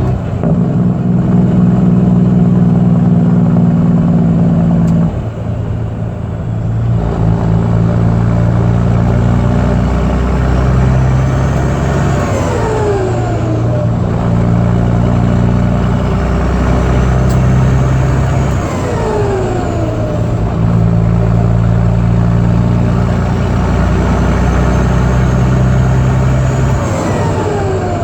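Caterpillar C15 ACERT inline-six diesel running hard under acceleration, its pitch stepping down several times as it shifts up through the gears. A high whine rises and falls away sharply three times, at each shift.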